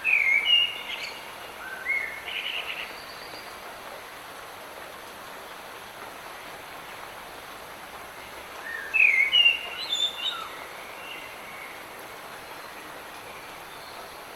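Steady hiss of light rain with a songbird singing two short phrases of quick stepped notes, one at the start and another about nine seconds in.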